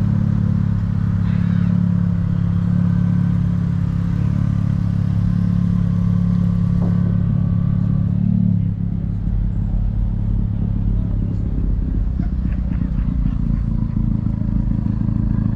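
Car engine running with a deep, steady rumble. The sound shifts about halfway through.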